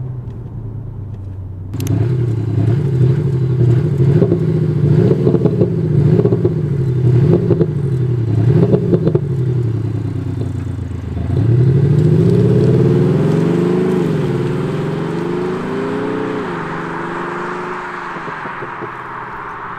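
Four-cylinder Mercedes-Benz E200 engine amplified by an aftermarket active sound module in its 'A' mode. Heard briefly from inside the cabin, then from outside: it revs up and down repeatedly with pops and crackles, pulls away hard at about eleven seconds with two upshifts, and fades as the car drives off.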